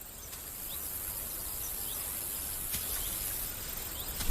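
Outdoor wetland ambience: a steady high insect drone, with faint short chirps repeating about once a second.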